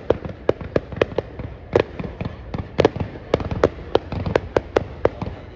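Fireworks going off in a rapid, irregular string of sharp bangs, about three or four a second, each with a short echo over a constant low rumble.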